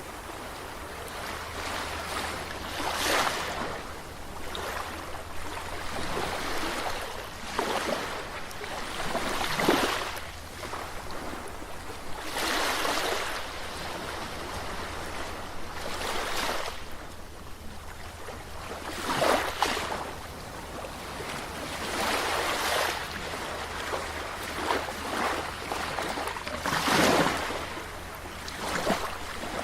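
Ocean waves breaking and washing on a shore, one surge every two to four seconds over a steady hiss of surf.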